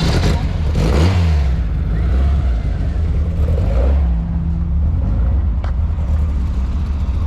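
Car engine running with a steady low rumble, revving up briefly about a second in.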